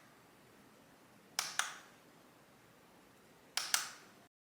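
Clicks of a small plastic push-button switch on a hand-crank weather radio, pressed and released: a double click three times, about two seconds apart, over faint room tone that cuts off near the end.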